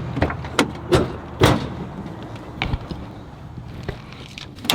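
A quick run of knocks and thuds, about five in the first second and a half, then a single sharp click near the end.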